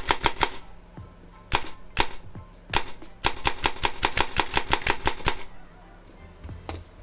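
Krytac Kriss Vector airsoft electric gun with a DSG gearbox firing. A quick burst comes first, then three single shots, then a rapid string of shots lasting about two seconds, and a last single shot near the end.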